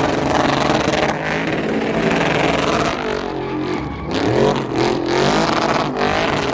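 Car engine revving hard, its pitch climbing and falling again several times.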